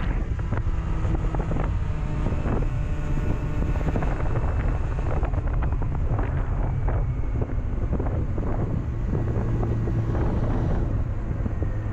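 2007 Honda CB400SF's inline-four engine running under way, with wind buffeting the microphone. The engine note shifts pitch a couple of times, settling on a lower, stronger tone near the end.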